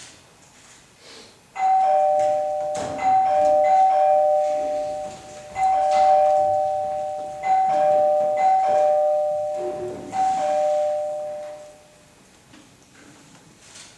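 Two-tone 'ding-dong' doorbell chime rung over and over, about six times in quick succession, each high-low pair ringing on and fading before the next press.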